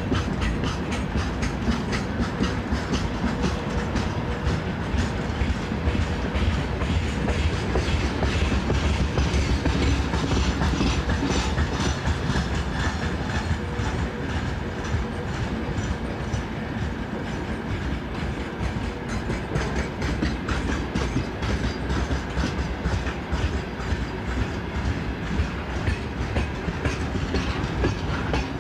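Loaded freight train wagons rolling past at speed, with the wheels' rapid clickety-clack over the rail joints running steadily over a heavy rumble.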